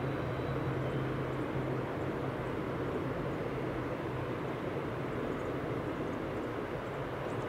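Distant rumble of a CN double-stack container train's cars rolling across a steel truss bridge, a steady noise with a low hum that slowly fades in the second half as the end of the train passes.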